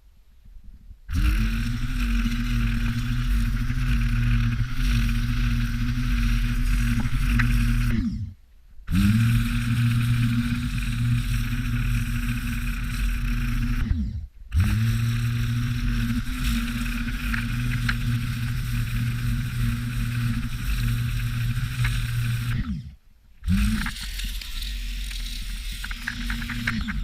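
An engine running steadily, heard in four stretches broken by abrupt cuts.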